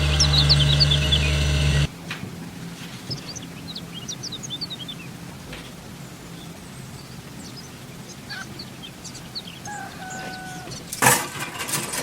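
A loud steady machine hum cuts off abruptly about two seconds in, leaving birds chirping over quiet outdoor ambience. Near the end comes one sharp, loud knock.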